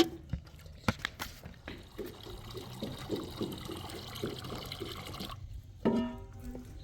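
Liquid being poured for about three and a half seconds, a steady splashing hiss with irregular glugs that stops abruptly. A few light knocks come before it, and a short voice-like call follows near the end.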